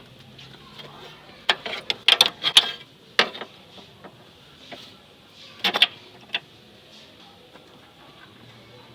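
Metal hand tools clinking and knocking on metal parts in a run of sharp clicks: a quick cluster about a second and a half in, a single knock a moment later, and another short cluster past the middle.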